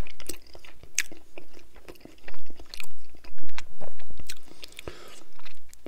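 A person chewing a mouthful of sauced rib meat, with sharp mouth clicks and smacks at irregular intervals.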